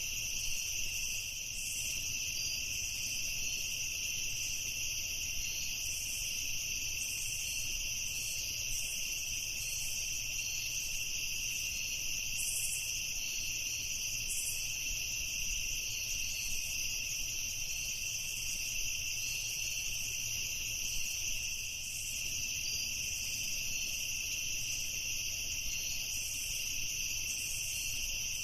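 Crickets chirping in a continuous, steady chorus at two high pitches, with a constant low rumble underneath.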